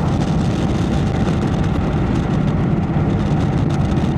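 Indian Chieftain's Thunderstroke V-twin running steadily through an aftermarket Freedom Performance exhaust, a loud, even, pulsing rumble.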